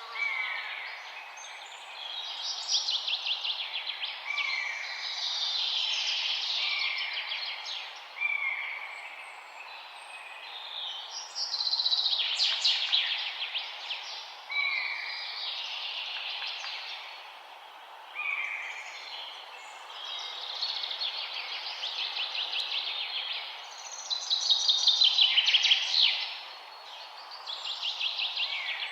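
Several forest songbirds singing over one another: rapid trilling phrases and chirps, with a short falling whistle that recurs every few seconds, over a steady low background hiss.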